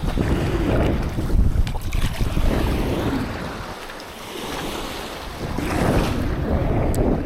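Surf breaking and washing on a sandy beach, swelling twice, with wind rumbling on the microphone.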